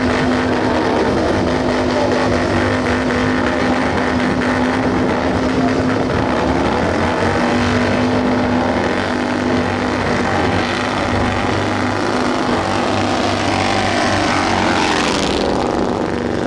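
Motorcycle engine running steadily at high revs, with a quick rising sweep about a second before the end.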